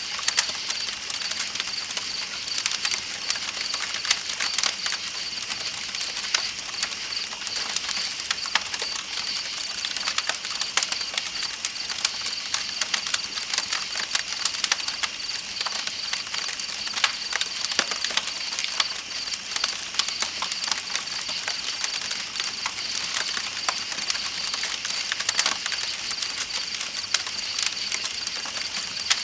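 Campfire crackling with many small irregular pops, over a steady high chirring of night insects and the hiss of flowing river water.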